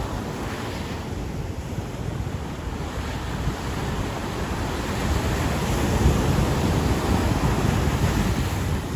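Ocean waves breaking and washing up a beach, swelling louder partway through, with wind buffeting the microphone.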